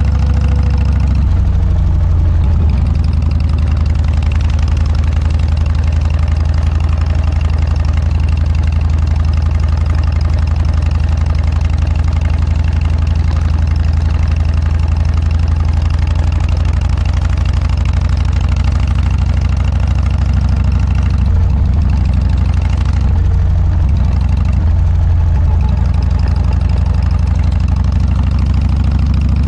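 Harley-Davidson Dyna's V-twin engine running through an aftermarket Motorstage muffler: a steady, deep exhaust note, with brief shifts in pitch about a second in and again around two-thirds of the way through.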